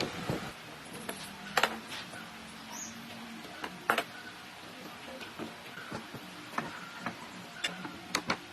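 Scattered sharp clicks and light knocks of hand work with wooden pieces and tools, irregularly spaced, over a faint steady hum.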